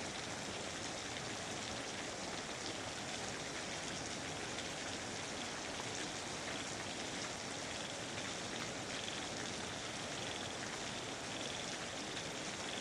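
Steady rain falling in a rainforest, an even, dense patter. A faint, high, rapidly pulsing call joins in about two-thirds of the way through.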